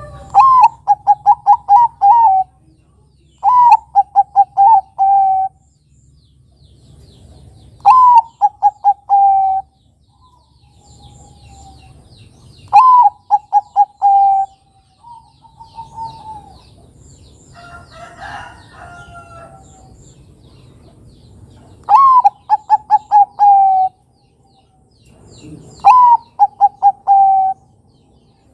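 Zebra dove (perkutut, Bangkok type) singing its cooing song six times. Each phrase is a higher opening note followed by a quick run of short, even coos.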